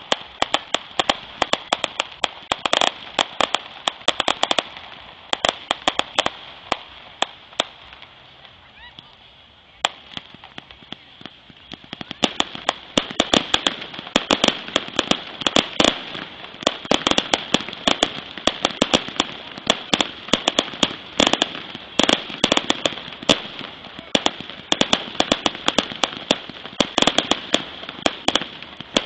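Fireworks display: rapid crackling and sharp pops in dense volleys, thinning out for a couple of seconds about a third of the way in, then crackling densely again.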